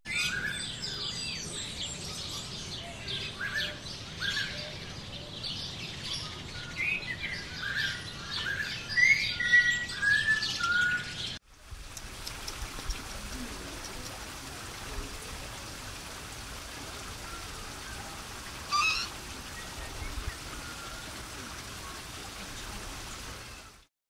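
Many birds chirping and calling, busiest and loudest about nine to ten seconds in. The calling cuts off abruptly about halfway through and gives way to a steady faint hiss, with one short call a little later.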